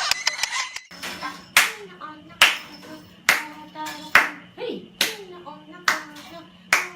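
Hand claps in a steady beat, about one a second, with a voice sounding between the claps.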